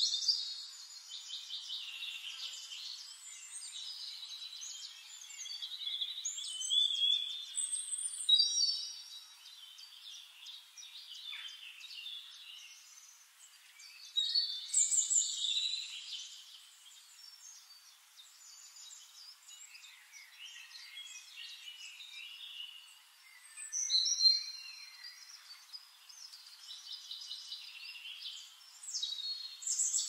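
Songbirds singing: a busy, overlapping chorus of high chirps, whistles and quick trills that swells and thins, with louder bursts of song about 8, 15, 24 and 29 seconds in.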